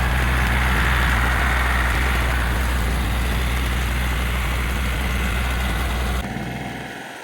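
A large engine idling steadily, with a deep, even hum and a rough noise over it. It cuts off suddenly about six seconds in.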